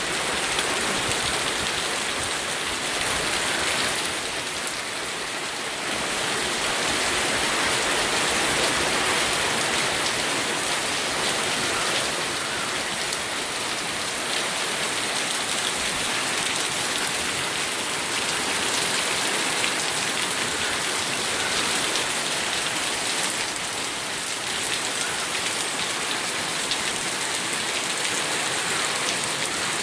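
Steady rainfall, a dense even hiss of raindrops with a slight swell and ebb in loudness now and then.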